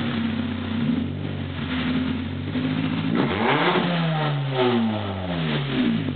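Toyota Tercel's 5E-FE four-cylinder engine revving through an open, free-flowing exhaust, the revs climbing and falling back several times, with a quick sharp rev about three seconds in.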